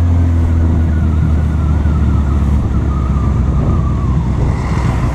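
Honda CB1000R motorcycle's inline-four engine running steadily under the rider, with wind and road noise. Its steady note breaks up about halfway through as it eases off. A thin high whine slowly falls in pitch during the first few seconds.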